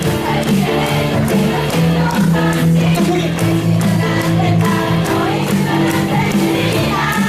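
Live pop music with a steady beat and voices singing.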